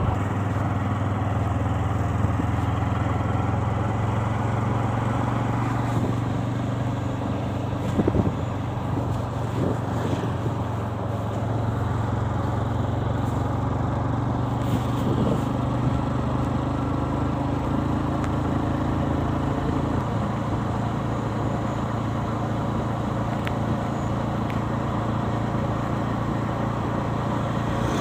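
Motorcycle engine running steadily during a ride, its pitch shifting a little a couple of times as the speed changes.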